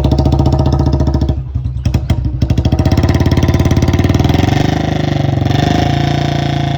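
Royal Enfield Bullet 350's single-cylinder engine thumping through an aftermarket 'pataka' silencer, a steady dug-dug beat of exhaust pulses. About four seconds in the engine speed picks up and holds at a faster, higher beat.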